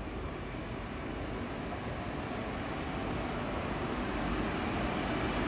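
KTM diesel multiple-unit train approaching along the station platform: a steady rumbling running noise that grows slowly louder as it nears.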